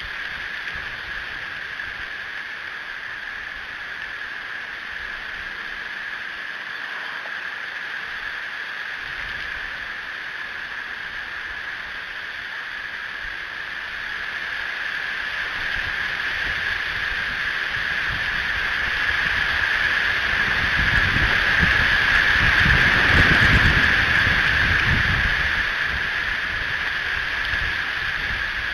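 Strong wind buffeting an outdoor nest-camera microphone over a steady hiss. A gust builds through the middle, peaks about two-thirds of the way in with low rumbling, then eases.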